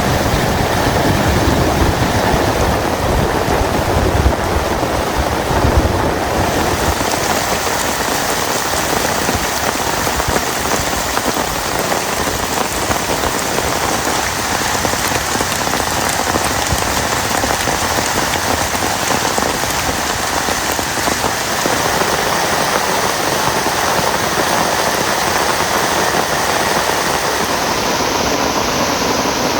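Heavy rain falling steadily, an even hiss of drops. For the first six seconds a deep rumble runs under it; then the rumble drops away and the hiss turns brighter.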